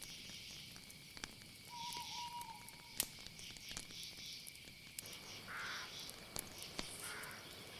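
Night-time insect chorus: a steady high trill with pulsing chirring above it. There is one short call about two seconds in, a few softer calls in the second half, and scattered small clicks.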